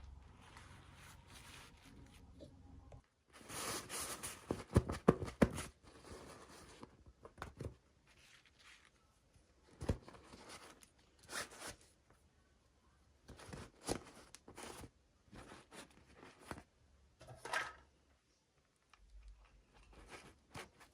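Toy packaging being handled and opened: crinkling, tearing and clicking in short bursts, busiest from a few seconds in to about the six-second mark, then scattered rustles and clicks with pauses between.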